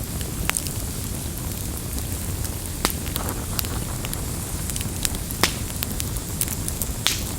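Campfire burning with a low steady rumble of flames and scattered sharp crackles and pops of the wood, several of them louder than the rest.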